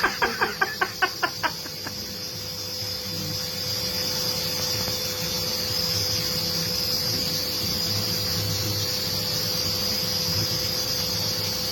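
Vacuum cleaner running steadily, a constant hum with a high whine. At the start, a quick run of about ten ticks over a second and a half.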